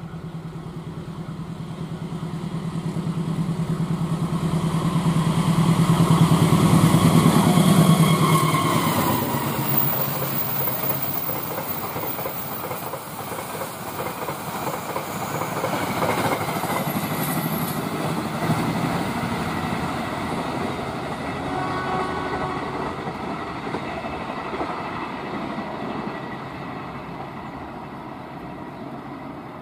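KAI diesel-electric locomotive hauling a passenger train past at speed. Its engine drone builds to the loudest point about seven or eight seconds in, then the wheels clatter over the rails as the coaches go by, fading as the train moves away.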